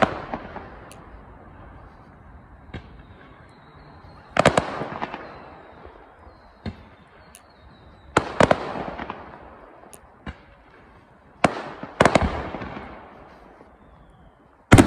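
Aerial fireworks bursting overhead: a loud bang about every four seconds, each trailing off over about a second, with fainter single pops in between.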